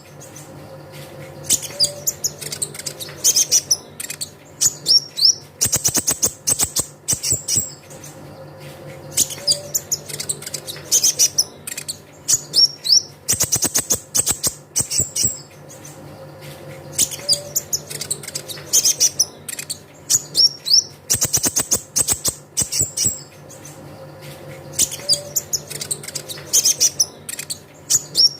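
Brown-throated sunbird (kolibri ninja) song: rapid high chips and twittering mixed with short falling whistles. The same sequence repeats about every eight seconds, as a looped lure recording.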